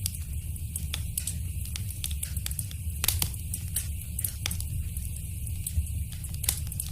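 Wood fire burning in a fireplace: a steady low rumble and hiss with irregular sharp crackles and pops, a couple of louder pops about three seconds in and near the end.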